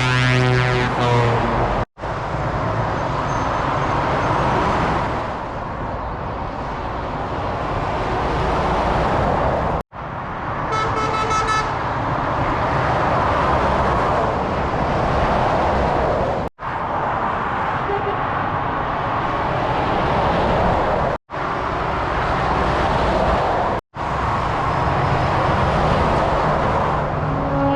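Lorries passing on a motorway, a steady rush of tyres and engines. Truck air horns sound at the start, again about ten seconds in, and once more near the end. Several brief dropouts to silence break it up.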